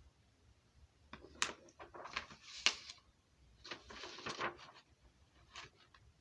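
A scatter of light clicks and short rustling noises from something being handled, with two longer rustles about two and four seconds in.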